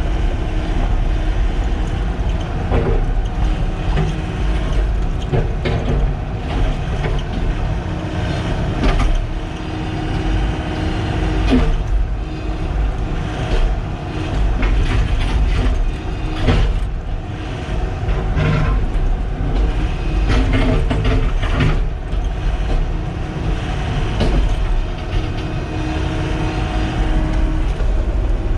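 Sany SY95 excavator's diesel engine running steadily, with short metallic clanks and knocks from the machine every few seconds.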